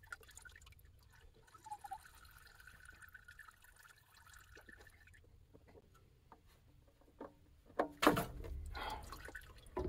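Engine oil trickling and dripping from a loosened spin-on oil filter as it comes off, with a few small handling clicks and a louder clatter about eight seconds in.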